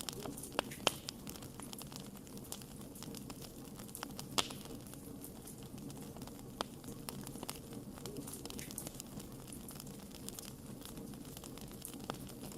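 Wood campfire burning: a steady low rush of flame with scattered sharp crackles, and a few louder pops in the first second, about four seconds in and near the end.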